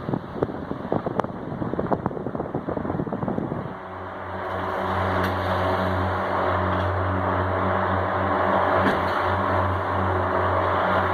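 Arge Max 50 cm wall fan running. About four seconds in, a steady motor hum sets in and the rush of air builds up. Before that there is irregular crackling noise.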